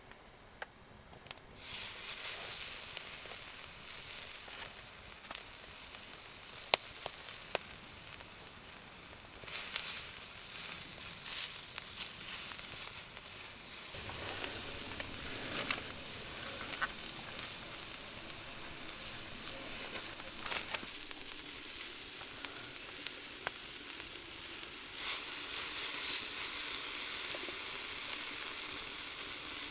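Horumon (offal) frying in a hot pan, sizzling with a steady hiss that starts suddenly about a second and a half in and steps louder near the end, with scattered sharp pops.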